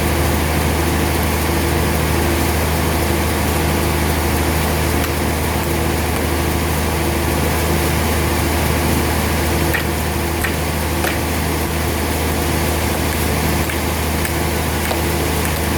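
Sawmill machinery running with a steady low hum, with a few sharp clicks about ten seconds in.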